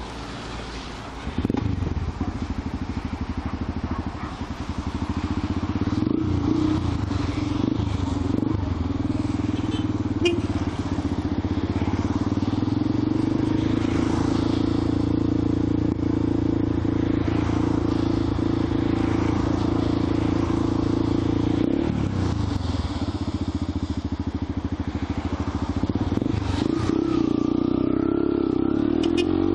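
Yamaha XTZ 125's single-cylinder four-stroke engine running as the motorcycle is ridden. It gets louder about a second and a half in and holds a steady pitch for a long stretch. It eases off about 22 seconds in and picks up again near the end.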